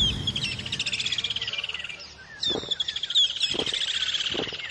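Songbirds singing: two long, fast trills with short chirps scattered between them.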